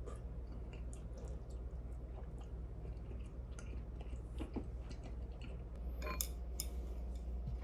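Someone chewing food close to the microphone, with small wet clicks throughout and a few sharper clicks about six seconds in.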